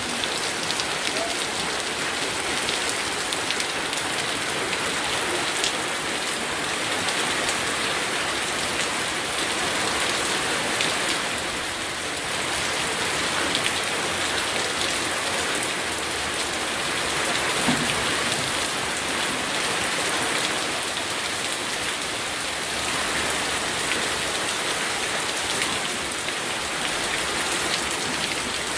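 Steady rain falling and pattering on surfaces, a dense even hiss with scattered individual drop impacts.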